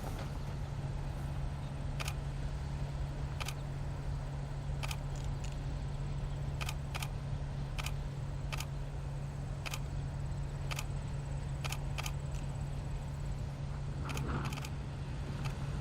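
A steady low engine hum, with about a dozen sharp camera shutter clicks at uneven intervals.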